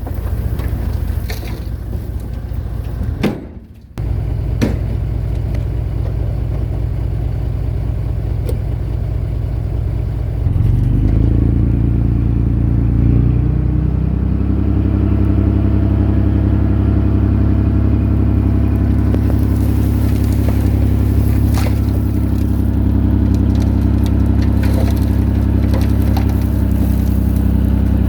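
Heavy machine's diesel engine running under load, with a brief drop-out about three and a half seconds in. About ten seconds in it revs up and holds steady at the higher speed.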